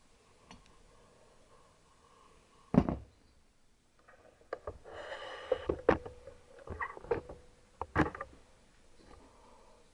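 Hard knocks and clatter of tools and engine parts being handled on a workbench: one loud knock early on, a busy run of clicks and rattles in the middle, and another loud knock near the end.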